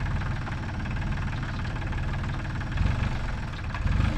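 An engine idling steadily with a rapid low pulse.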